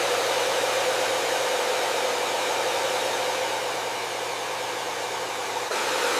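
Hair dryer running steadily: an even airflow rush over a low motor hum. It dips slightly in loudness partway through, then jumps back up abruptly near the end.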